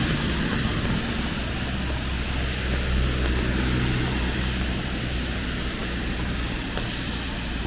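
Steady hiss of falling rain, with a low engine hum beneath it that is strongest a few seconds in and fades toward the end.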